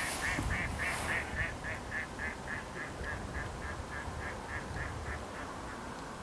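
A bird calling in a long, even series of short, high notes, about four a second, that fade away near the end.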